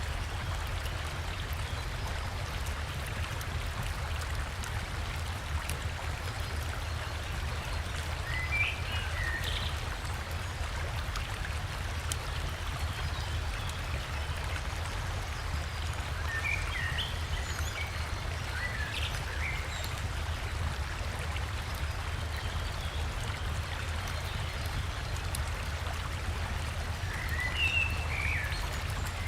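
Steady rushing of river water and a small waterfall. Brief bird chirps come in short clusters about a third of the way in, again past the middle, and near the end.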